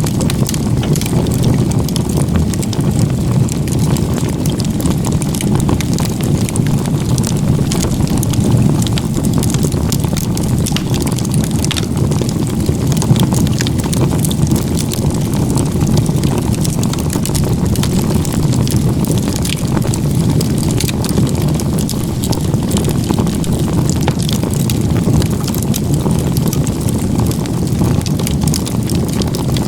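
Campfire of crisscross log-cabin stacked firewood burning strongly: a steady low rush of flame with frequent crackles and pops from the wood.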